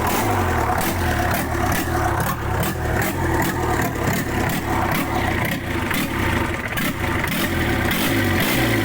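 JCB machine's diesel engine running steadily at idle, with a regular low pulsing beat.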